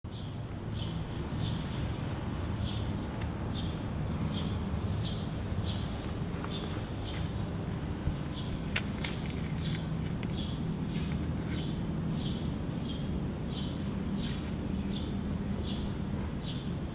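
A bird chirping over and over, about two short high chirps a second, over a steady low background rumble.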